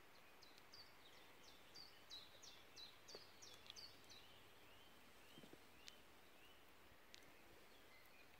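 Faint songbird song: a run of about a dozen short, high notes at about three a second, then a couple of single high calls near the end, over quiet woodland background.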